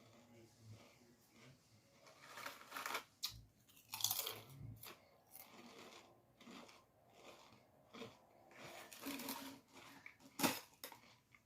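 Close-up chewing and crunching of a crunchy snack, in irregular bites, with a sharp click near the end.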